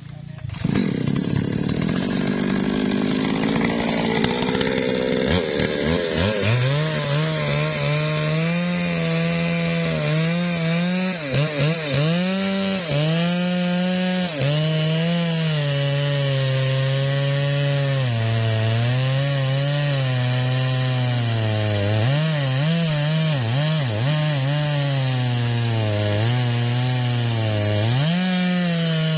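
MOTOYAMA 1000 chainsaw revving up about half a second in and cutting teak wood. Its engine pitch dips and recovers repeatedly as the chain bogs under load in the cut.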